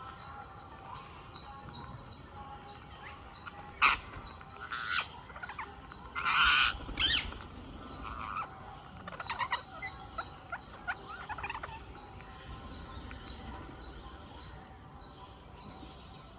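Ring-necked parakeets calling while feeding: a steady series of short high chirps about two or three a second, broken by a few loud harsh screeches, the loudest about six and a half seconds in.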